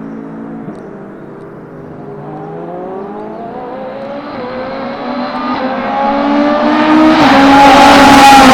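BMW M Hybrid V8 prototype race car, with a twin-turbo V8, accelerating hard up through the gears as it approaches. It is heard as repeated rising sweeps in engine pitch, and it grows steadily louder until it is close and very loud near the end.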